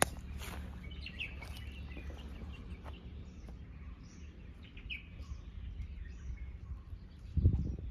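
Small birds chirping in short separate calls, over a steady low rumble, with a louder low bump near the end.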